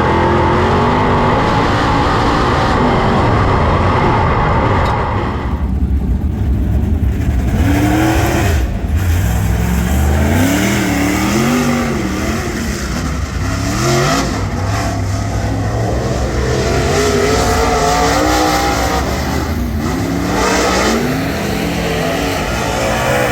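Ford 422 cubic inch V8 of a dirt Super Late Model running hard on track, heard from inside the car. The engine note rises and falls again and again as the throttle is worked.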